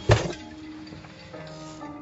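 A single sharp thud just after the start, then music with held notes that step in pitch.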